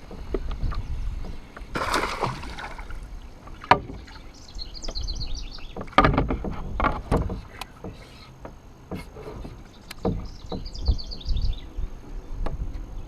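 Hollow knocks and bumps against a kayak hull with water lapping, and a brief rushing splash about two seconds in. A bird's short trilled call, a quick run of high notes, comes twice.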